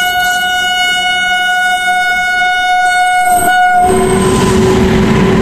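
Indian Railways electric locomotive sounding one long, steady horn as it approaches on the next track. The horn cuts off about four seconds in, and the locomotive and its coaches rush past with a loud rumble of wheels.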